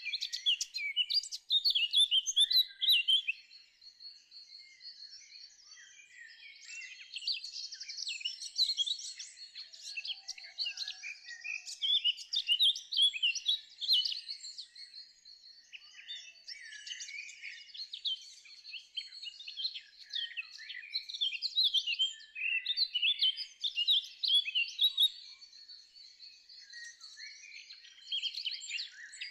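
Songbirds singing: quick, high chirping and twittering phrases that swell and ease every few seconds.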